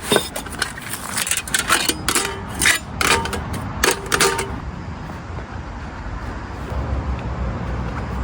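A run of irregular sharp clicks and clinks from camping gear being handled, about a dozen over four seconds, followed by a steady low rumble that grows toward the end.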